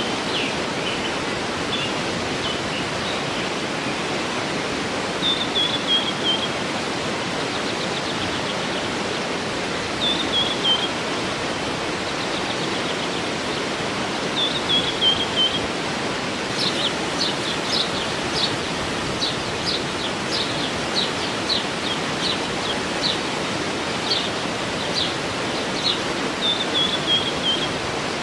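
Waterfall rushing steadily with birds singing over it: a short series of chirps falling in pitch, repeated every few seconds, and from about halfway a run of sharp notes, roughly one and a half a second.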